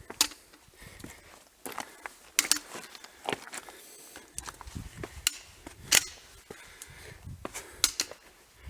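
A hiker's footsteps on a stony wadi bed: sharp, irregular clacks and crunches of stones underfoot.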